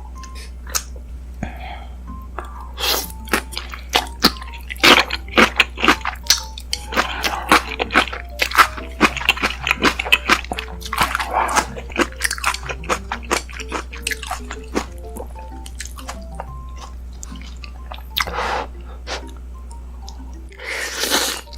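Close-miked eating of ramen noodles: rapid wet mouth clicks and chewing, with short slurps, thickest in the first half and then thinning out. Soft background music runs underneath.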